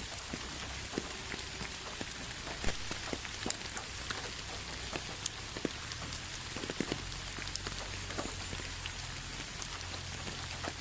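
Steady rain with a continuous hiss and many individual drops ticking on a hard surface.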